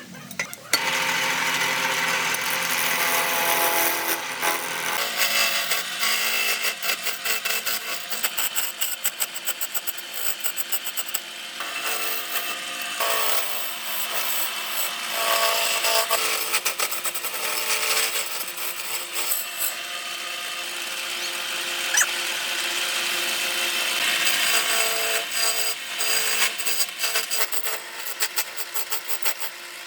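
A tool working wood: a continuous, noisy cutting or rubbing sound with a rapidly fluctuating level, starting abruptly about half a second in.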